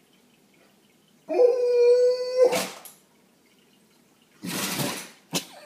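A Great Dane starts to howl, one steady held note that breaks off after about a second into a sneeze. A second, longer sneeze follows about two seconds later, with a short third one just after it.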